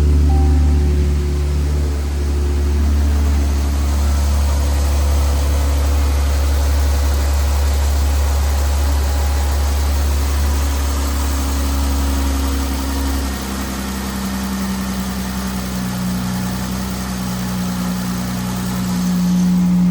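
2016 Dodge Ram 1500's 3.6-litre Pentastar V6 running at idle, steady, with the engine note shifting about two-thirds of the way through and growing a little louder near the end.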